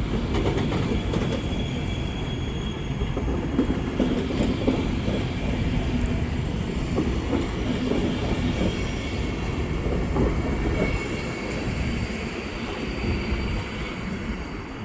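A train running past on the track: a continuous heavy rumble of wheels on rails, with a thin high wheel squeal over it, easing slightly near the end.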